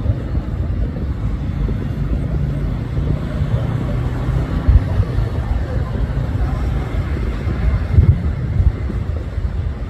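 Distant fireworks heard over a steady low rumble of city traffic and wind on the microphone, with deep thumps from shell bursts about five and eight seconds in.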